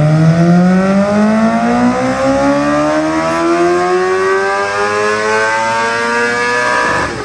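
Sportbike engine at full throttle on a dyno, revs climbing smoothly and steadily in a single gear for about seven seconds. The throttle is shut off abruptly near the end, and the pitch drops.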